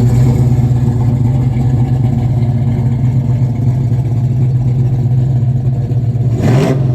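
1967 Chevelle SS 396 big-block V8, just started, running at a steady idle, with a brief rise in engine pitch near the end.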